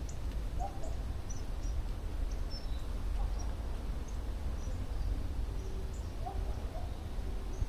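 Birds chirping in short, scattered calls over a steady low rumble, likely wind on the microphone.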